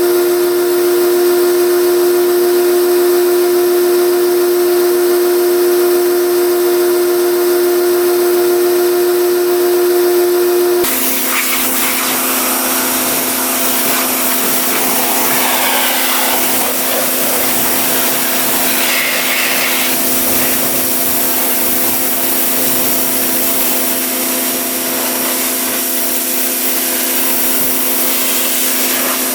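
Pressure washer running steadily with a motor hum. About eleven seconds in its note drops and a loud hiss of spraying water comes in, continuing to the end.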